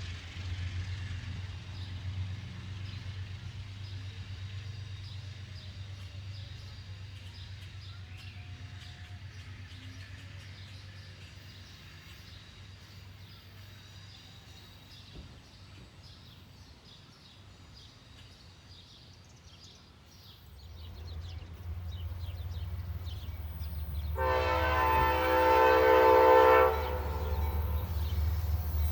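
Low rumble of an Amtrak train fading away, then another train's diesel engine growing louder as it approaches. About four seconds from the end, its locomotive horn sounds one long blast of several tones.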